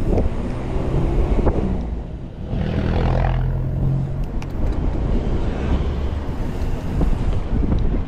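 Wind buffeting the microphone over a steady low rumble, with a brief swell of noise about three seconds in.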